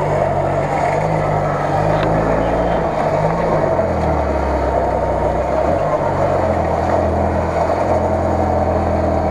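UAZ-469 off-roader's engine running while stuck in deep mud, its pitch dipping and rising again as the revs change, about four seconds in and again after six. A steady higher whine runs alongside it.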